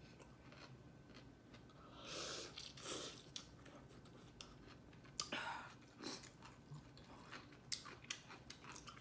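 A person chewing food close to the microphone, with soft wet mouth clicks. There are short louder bursts about two seconds in and again about five seconds in.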